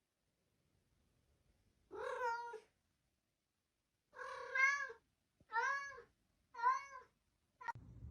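A cat meowing: four drawn-out meows, each rising and then falling in pitch, starting about two seconds in and about a second apart, then a brief clipped one near the end.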